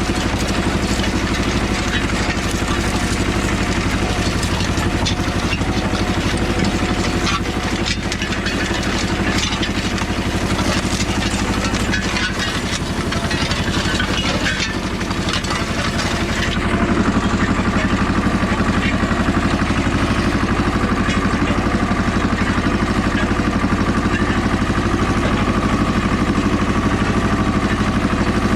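Goldoni 933 RS DT tractor's diesel engine running steadily while pulling a disk harrow, with rattling and clatter over the engine note. About two-thirds of the way through the clatter drops away and the engine note turns smoother and slightly louder.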